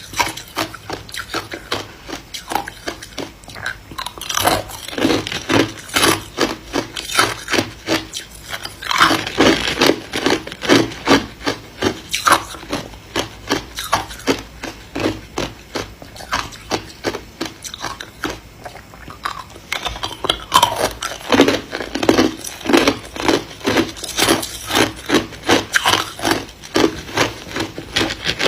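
Ice being chewed and crunched between the teeth in a steady run of crisp crunches, a few a second, louder in stretches.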